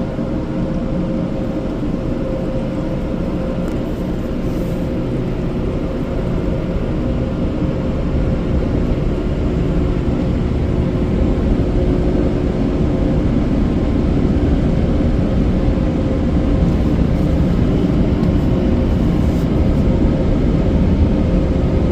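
Petit Accutrac360 car wash dryer blowers running, a steady loud roar of air with a faint steady whine, growing a little louder about halfway through.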